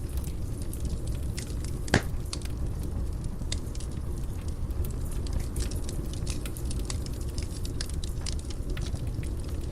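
Fire burning in a fireplace: a steady low rumble of flames with frequent small crackles, and one loud pop about two seconds in.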